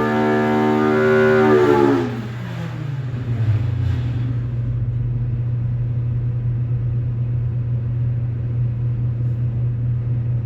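Polaris RZR Pro R four-cylinder engine with an AA header on an engine dyno, held at high revs at the end of a full-throttle pull. About two seconds in the throttle closes, and the revs drop over roughly a second to a steady idle.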